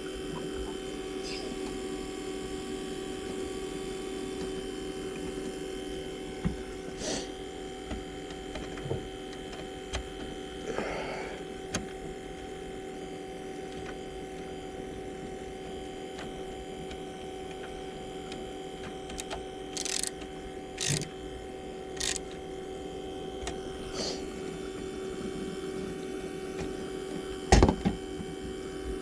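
A steady machine hum with a few scattered clicks and knocks, the loudest knock near the end.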